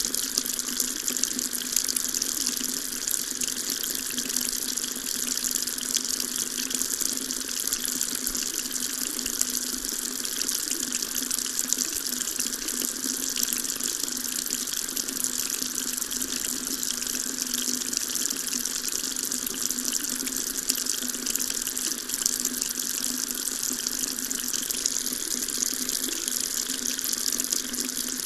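Water tap running in a steady stream, a constant splashing hiss with no change throughout.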